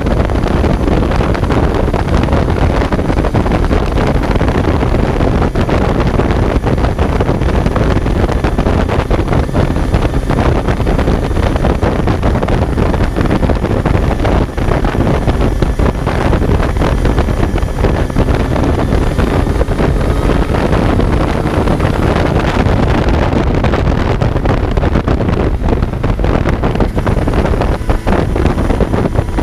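Kawasaki Z900's inline-four engine running on the move, heard on board under heavy wind noise on the microphone, its pitch rising in places as the revs climb.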